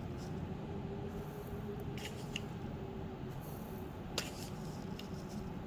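A few light clicks of a spoon against a mixer-grinder jar as sugar is spooned in: two close together about two seconds in and one more about four seconds in, over a faint steady background hum.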